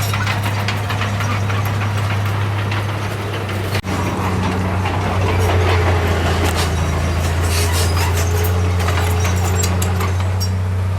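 Heavy diesel engine of earthmoving equipment running steadily, with scattered clanks and rattles over it and a brief drop in level about four seconds in.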